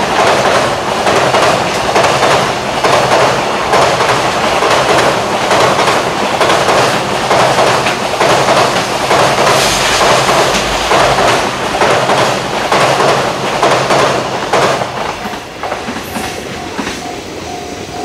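Container wagons of a long freight train running at speed over rail joints, with a steady rhythmic clickety-clack of wheels crossing the joints. About fifteen seconds in, the last wagons pass and the clatter fades.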